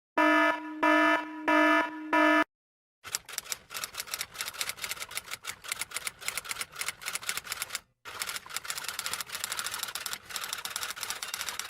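Four short electronic beeps, then a rapid, uneven run of typing clicks that pauses briefly partway through.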